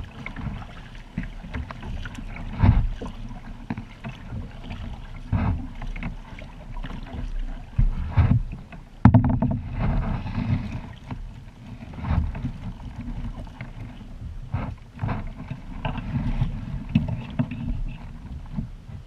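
Kayak on open water: splashes every couple of seconds over a steady low rumble.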